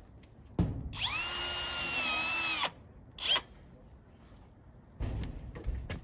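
Power drill running for about two seconds, its motor whine sagging slightly in pitch as it takes load, then a short second burst, as it drives a fastener into the garage door. A few knocks follow near the end.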